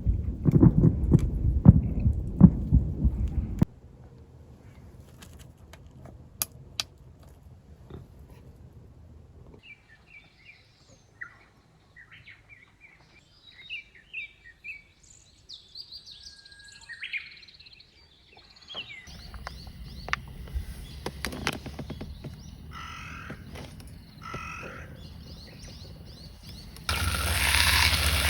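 Small birds chirping in short high calls through the middle, over quiet outdoor background. This follows a few seconds of loud low thumping and rumble at the start. Near the end a loud steady sizzle cuts in, like food frying.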